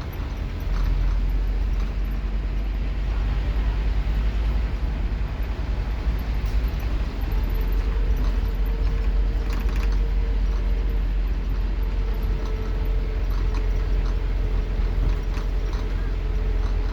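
Scania K230UB Omnilink bus's five-cylinder diesel engine running with a loud, steady low rumble, heard from inside the bus. A thin steady whine joins about halfway through and fades out near the end.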